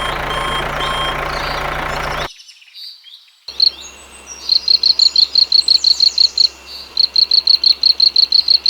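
A vehicle engine running with reversing beeps about twice a second, cut off sharply after about two seconds. After a second of near silence, a bird chirps rapid short notes, about six a second, in two long runs over a faint low hum.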